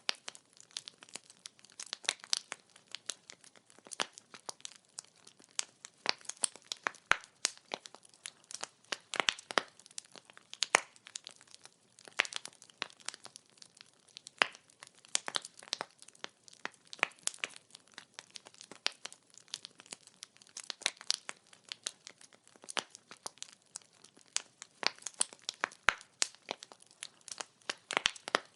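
Firewood burning, crackling with many small irregular pops and snaps and now and then a louder, sharper crack.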